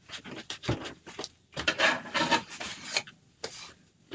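Rubbing and scraping in short, irregular strokes, with a few sharp clicks among them.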